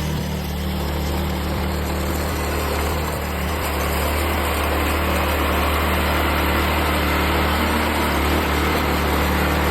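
A motor running steadily with a low hum and a hiss over it. The sound grows slightly louder about three to four seconds in.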